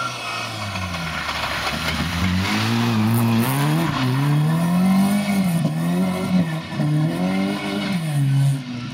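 Lada 2107 rally car's four-cylinder petrol engine revving hard. Its pitch climbs and drops back several times as the car accelerates and lifts off through the corners.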